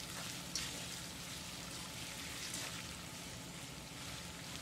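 Paneer cubes sizzling steadily in hot oil in a pan, being stirred with a slotted metal spatula.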